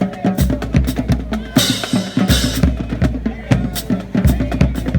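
Marching drumline playing a cadence: snare drums and tenor drums over tuned bass drums, with cymbals crashing about a second and a half in.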